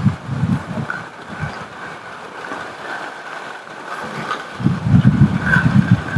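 Rainstorm ambience: a steady rain hiss under gusts of low wind rumble, which swell and grow strongest in the last couple of seconds. A couple of faint clicks come near the end.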